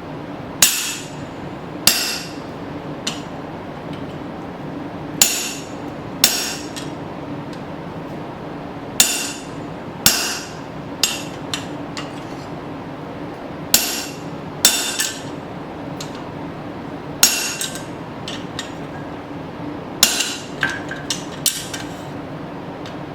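Hammer blows on a chisel cutting through a piece of steel file: sharp ringing metal strikes, mostly in pairs about a second apart with pauses between, plus a few lighter taps. A steady low hum runs underneath.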